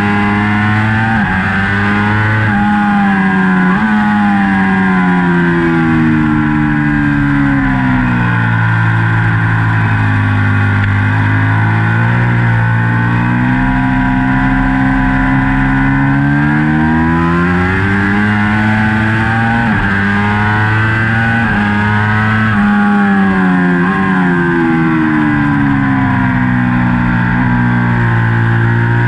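2019 Ducati Panigale V4 race bike's V4 engine at racing speed, heard from on board: the engine note climbs hard under acceleration, drops in steps on gear changes and winds down under braking into corners, then rises again, several times over.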